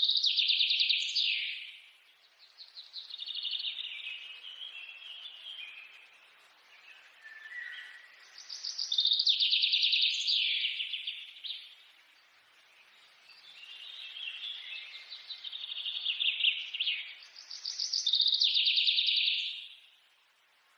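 Birdsong: rapid, high trilling chirps that swell and fade in bursts of about two seconds, the stronger bursts coming back every eight or nine seconds with softer chirping between.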